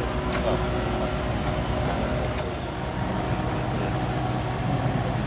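Kubota mini excavator's diesel engine running steadily, with a few short clicks or knocks from the machine.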